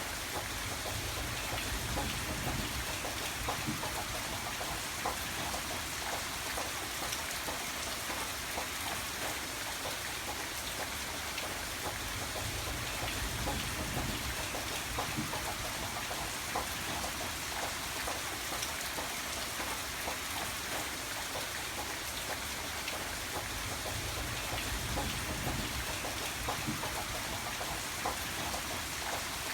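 Steady rain, with many separate drops heard hitting a surface, and a low rumble that swells and fades a few times underneath.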